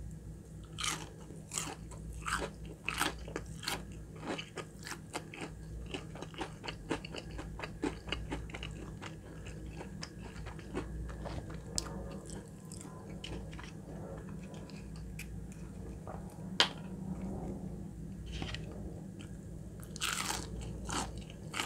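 Close-miked biting and chewing of crispy fried chicken nuggets. Dense crackly crunching after a bite about a second in thins over the next ten seconds into softer chewing with scattered crackles, then a fresh loud crunchy bite near the end.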